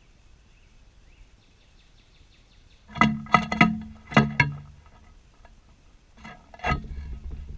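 A quick cluster of five sharp knocks, with two more a couple of seconds later, each with a short hollow ring, as if something is striking the housing or mount close to the microphone.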